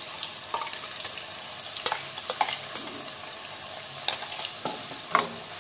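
Wet ground onion-and-garlic paste sizzling in hot oil in a kadhai, a steady hiss with a few scattered crackles and pops.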